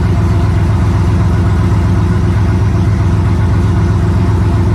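2014 GMC Sierra Denali's V8 with headers, running steadily at idle.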